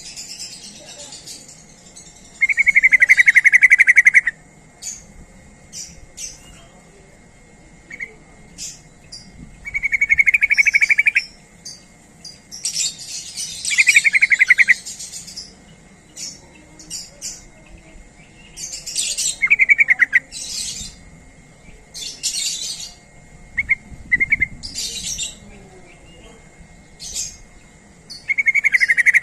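Yellow-vented bulbul (trucukan) calling: loud, rapid chattering phrases about one to two seconds long, repeated every few seconds, with short high chirps in between.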